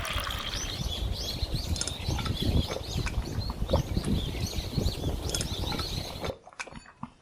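Many birds chirping in quick, short calls over a low background noise, cutting off abruptly about six seconds in and leaving a few faint clicks.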